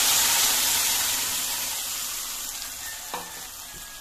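Tomato-onion masala purée sizzling in hot oil in an aluminium kadhai, just poured in: loud at first, then slowly dying down as the purée settles. A single short knock sounds about three seconds in.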